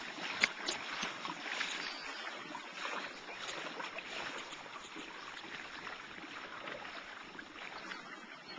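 Water swishing and splashing steadily around a moving pedal kayak, with one sharp click about half a second in.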